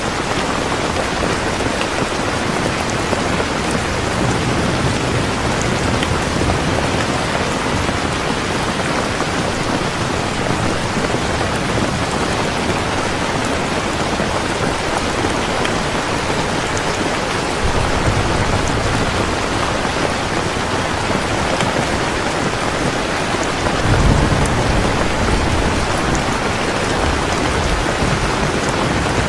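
Heavy rain falling steadily, with low rumbles of thunder: one rolls in a little past halfway and a louder one swells about three-quarters of the way through.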